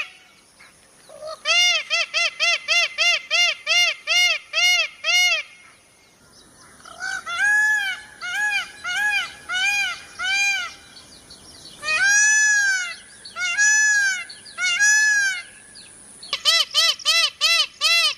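Peacock calling in runs of short, arched, honking notes, about three a second, with short pauses between the runs; a few notes near the middle are longer and more drawn out.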